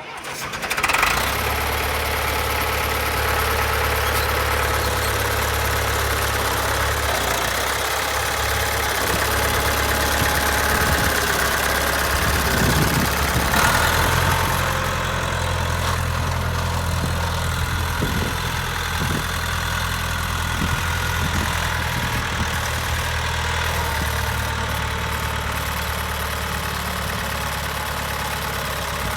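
John Deere 2520 tractor engine starting about a second in, then running steadily, its speed shifting a couple of times.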